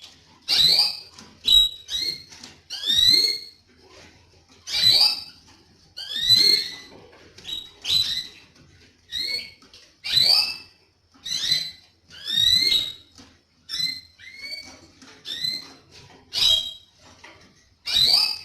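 Canary calling: a string of short whistled chirps that rise and bend, repeating about once a second.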